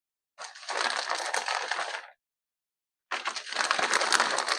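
Two bursts of dry, crackly rattling, each under two seconds, as cheese is shaken out over the pizza-dough meatball sliders.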